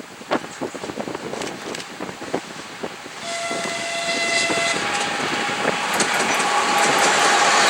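ChS4T electric locomotive sounding a single horn blast of about a second and a half, about three seconds in. The train's running noise then rises steadily as it approaches.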